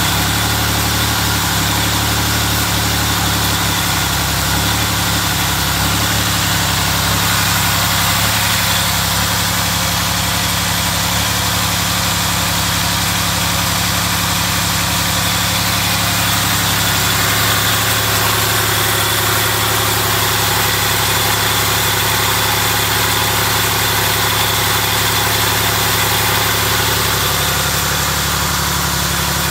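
2005 Ford Escape XLT's 3.0-litre Duratec V6 idling steadily.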